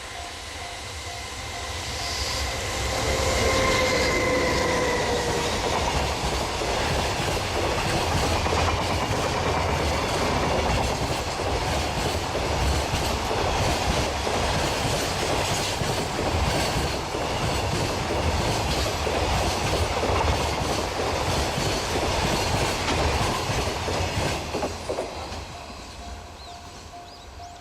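Freight train hauled by an EH500 electric locomotive passing close by. The locomotive's whine drops slightly in pitch as it goes by a few seconds in, then the wagons rattle past with a steady clickety-clack of wheels over the rails, fading out near the end.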